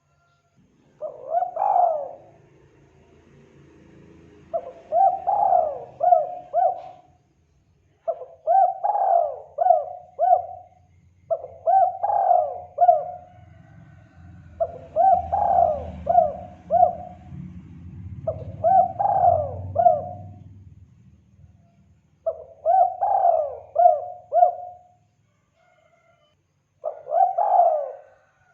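Spotted dove (tekukur) cooing: the same phrase eight times, every three to four seconds, each a long rising-and-falling coo followed by two or three shorter coos. A low rumble lies beneath the calls for the first twenty seconds or so.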